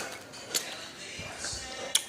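Close-up wet mouth smacking while chewing a sticky, juicy taffy, with sharp smacking clicks about half a second in and again near the end.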